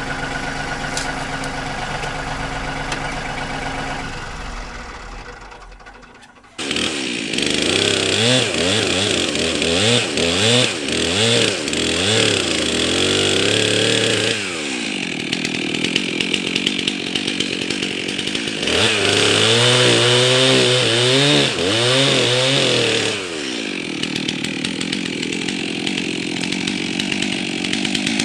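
A tractor engine running steadily fades down, then an abrupt cut brings in a Stihl two-stroke chainsaw running loud, revving up and down repeatedly and cutting wood, with steadier stretches between the revs.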